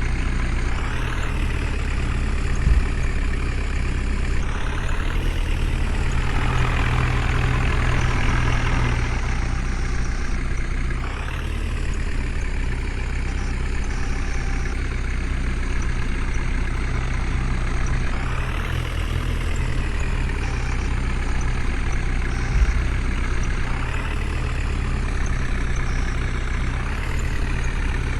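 Heavy diesel engine running steadily under work, its pitch rising briefly every several seconds. Two short knocks sound, one about three seconds in and one about 23 seconds in.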